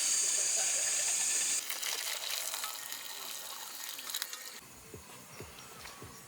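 A loud, steady hiss that cuts off abruptly about a second and a half in, followed by softer crackling sizzle that fades away.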